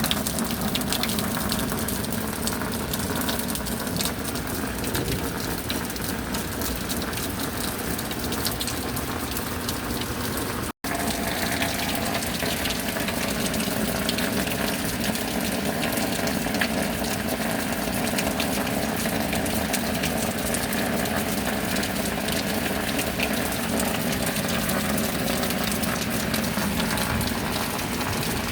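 Steady rush of rain and running water, with a faint low hum underneath. The sound drops out for an instant about eleven seconds in, then carries on unchanged.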